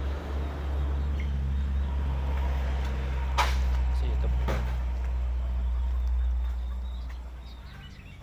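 Heavy truck's diesel engine running with a steady low rumble, fading away near the end as it pulls off. Two sharp knocks sound in the middle.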